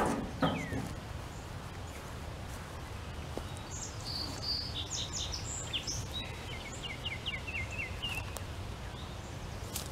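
A songbird sings a run of quick chirps and trills for a few seconds in the middle, over a steady low outdoor background rumble. A brief louder sound comes about half a second in.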